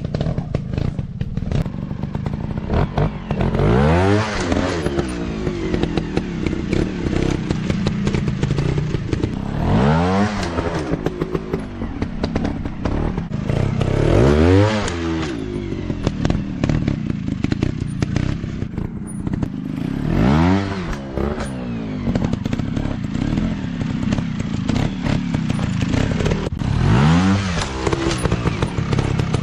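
Dirt bike engines running, revving up and dropping back five times, roughly every five or six seconds, over a steady engine rumble, with some clattering.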